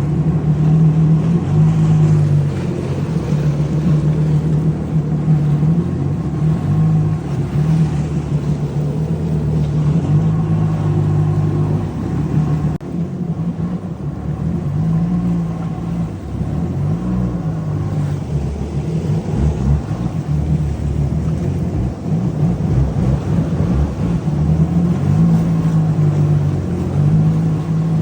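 Jet ski engine running at speed, its pitch rising and falling as the throttle changes.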